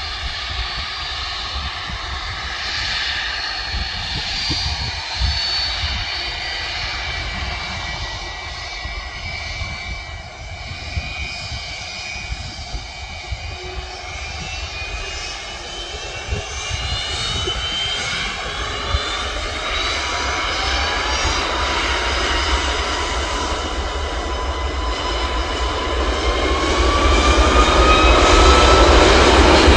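Boeing 757's twin turbofan engines running, their whine rising steadily in pitch from about halfway and growing louder near the end as the engines spool up for the takeoff roll.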